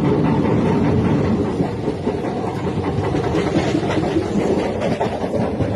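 Floodwater pouring through the open gates of the Prakasam Barrage: a loud, steady rushing rumble without a break.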